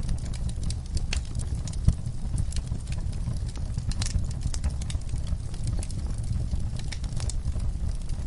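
Wood fire burning in a fireplace, with a low steady roar of flame and irregular sharp crackles and pops from the burning logs, one louder pop about two seconds in.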